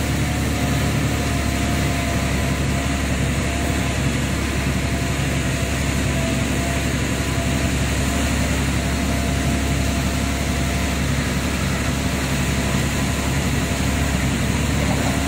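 A motor vehicle's engine running steadily under way, with road noise: an even drone that does not break or change.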